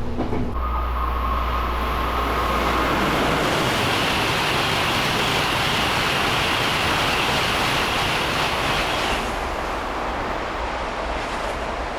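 A train running on the rails, a dense rushing noise that grows louder through the middle and drops off suddenly about nine seconds in, with a faint whine in the first few seconds.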